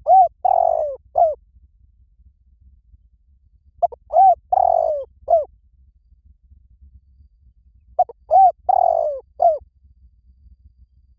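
Spotted dove cooing: three phrases about four seconds apart. Each phrase is a short run of arched coos with a longer, rolling note in the middle.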